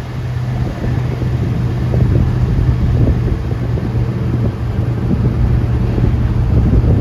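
A steady low mechanical hum, like an idling engine, under wind rumbling on the microphone.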